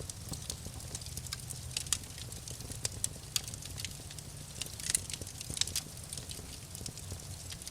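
Wood fire crackling, with irregular sharp pops over a steady low rumble; one louder pop about five seconds in.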